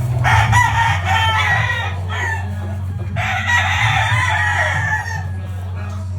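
Sweater gamefowl roosters crowing: two long crows of about two seconds each, the second starting about three seconds in. A steady low hum runs underneath.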